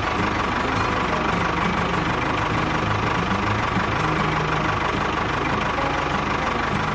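An engine running steadily at idle, a dense even noise with a thin steady whine on top.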